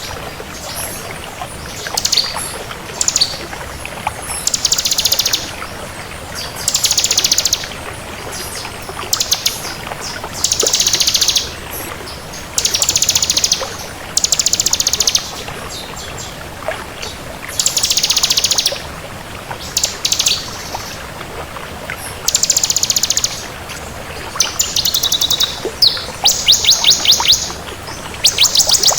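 Bar-winged prinia (ciblek kristal) singing vigorously: high-pitched phrases of very fast, rattling repeated notes, each about a second long, repeated every two seconds or so.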